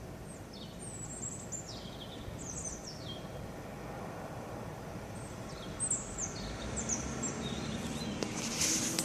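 A songbird singing short phrases of high notes that slide downward, in two bouts with a pause of a couple of seconds between them, over a steady low background rumble. A brief rushing noise comes near the end.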